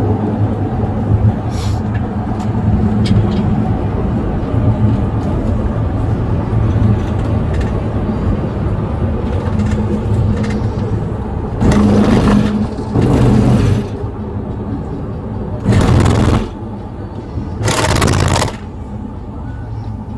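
A vehicle's engine and road noise running steadily while driving, with four loud rushing swells in the second half, like traffic passing close by or gusts of wind.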